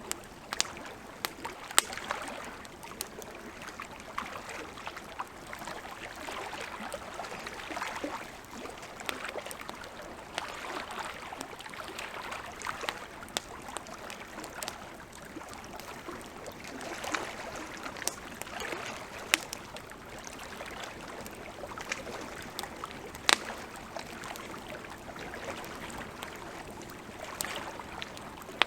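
Wood campfire crackling, with scattered sharp pops, a few of them loud, over the steady wash of a flowing river.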